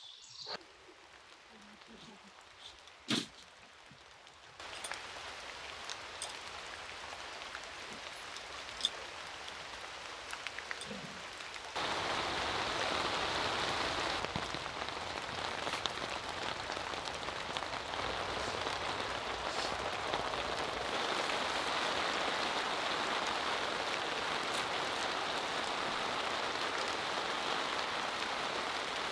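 Steady rain falling, a hiss that starts faint with a single sharp tap about three seconds in. It steps up in loudness about five seconds in and again near twelve seconds, then holds steady and louder.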